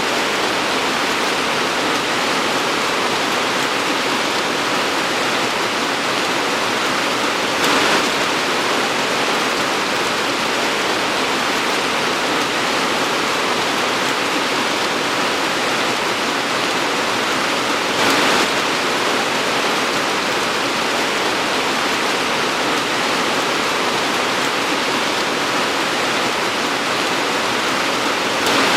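Torrential rain pouring steadily, a dense even hiss, with brief louder surges about 8 and 18 seconds in and again near the end.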